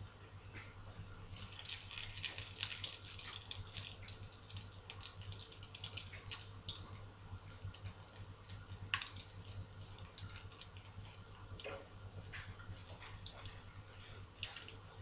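Pumpkin cutlets frying in oil in a pan, a steady sizzle with dense crackling, and now and then a sharper click of a fork against the pan as they are turned.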